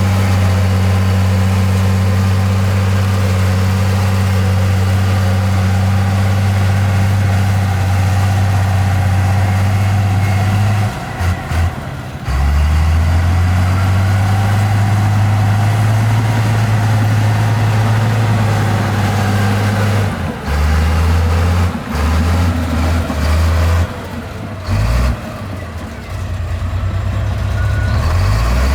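Diesel engine of heavy earthmoving machinery running with a steady low hum. It dips briefly about a third of the way in, then comes back, and from about two-thirds of the way it keeps cutting in and out in short stretches.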